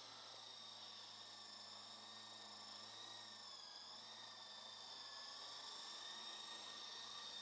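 Electric motors and rotors of a Lama V4 coaxial RC helicopter making a faint, steady whine, its pitch dipping slightly about halfway through.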